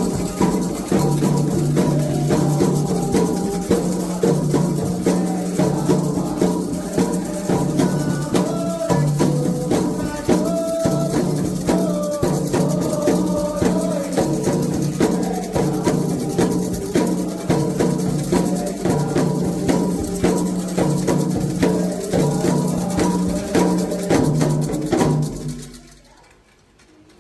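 Percussion music with drums and shaker rattles keeping a steady, dense beat over a low held pitch. It stops abruptly about a second before the end.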